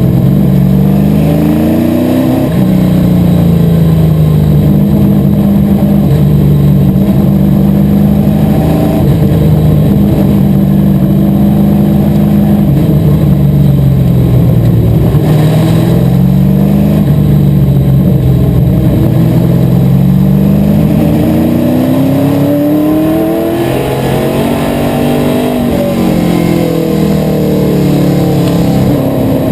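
Asphalt modified race car engine running hard at speed, its pitch climbing and falling off several times as the car goes around the track, with a quick drop just after two seconds and again near the end.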